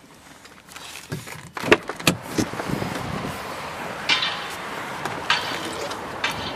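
A couple of sharp clunks of a car door, then wind on the microphone with a few light clicks and handling knocks.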